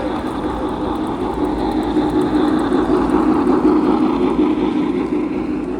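O-gauge model train running along a layout's track, a steady rumble that swells as it passes close and eases off near the end.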